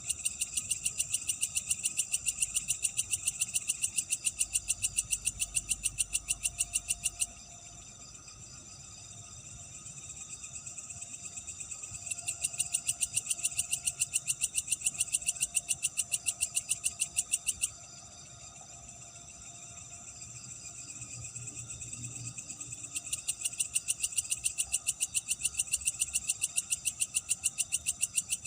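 A night animal calls in long trains of rapid, evenly spaced high-pitched pulses, each bout lasting several seconds, three bouts in all. Between the bouts a steady chorus of night creatures carries on more quietly.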